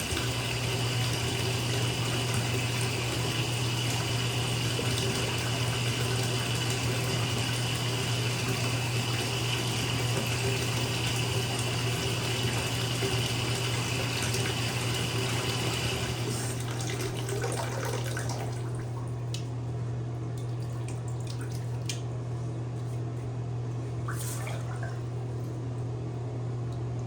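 Bathtub filling from the tap: water running in a steady rush. About two-thirds of the way through the higher hiss fades, leaving a lower, thinner rush with a few scattered drips.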